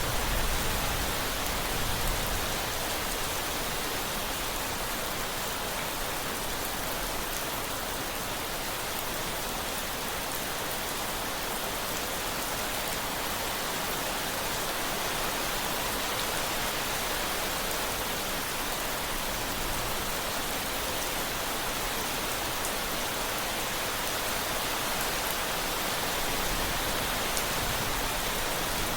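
Steady rain falling, an even hiss with no breaks. A faint low rumble sits under it in the first couple of seconds.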